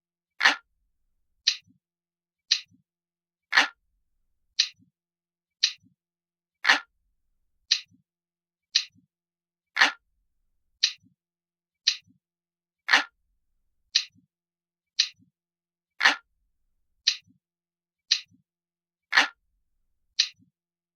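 Ticking clock sound, a steady tick about once a second, with every third tick heavier and deeper than the two between.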